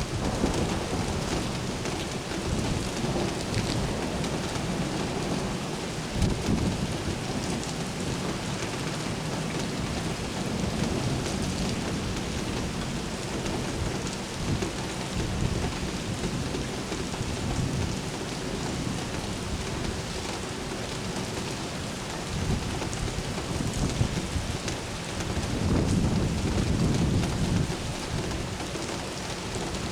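Steady rain with rolling thunder. A low rumble is fading at the start, and another swells about 25 seconds in.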